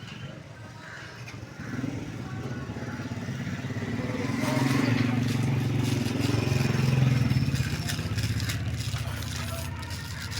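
A motor vehicle engine passing, its low hum growing louder over several seconds and then fading away.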